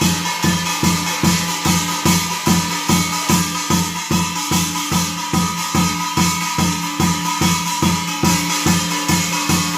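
Korean shamanic ritual music: a drum beating a fast, even rhythm of about three strokes a second under a piri holding high notes, with a bright metallic shimmer over the top.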